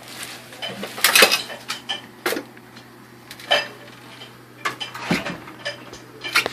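Scattered sharp clinks and knocks of hard objects being handled and set down, about seven of them, the loudest a cluster about a second in.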